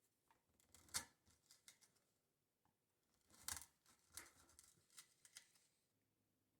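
Hand tools working wood: a sharp knock about a second in, a short scraping stroke around the middle, then several light clicks.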